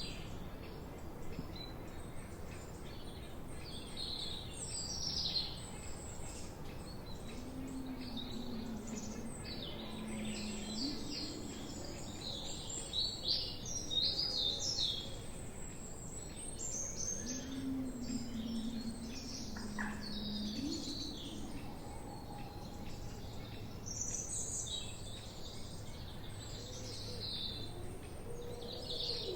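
Several forest birds chirping and singing, overlapping short high chirps and trills, over a steady background hiss. Twice, about seven and seventeen seconds in, a much lower drawn-out call lasting a few seconds joins them.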